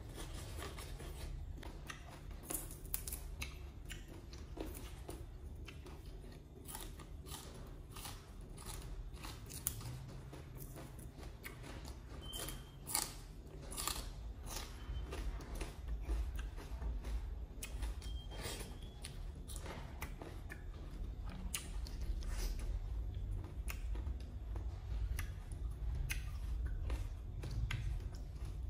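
A person chewing and biting into raw leafy greens and shredded green papaya salad, close to the microphone: many short crisp crunches, spaced irregularly, over a steady low hum.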